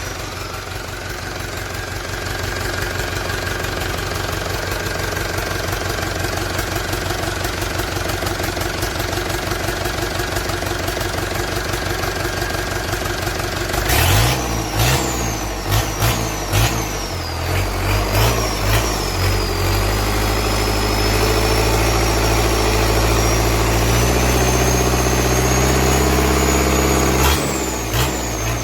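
Hino Dutro 130HT diesel engine idling steadily, then revved in several quick blips about halfway through and held at higher revs with a high whine, before dropping back to idle near the end.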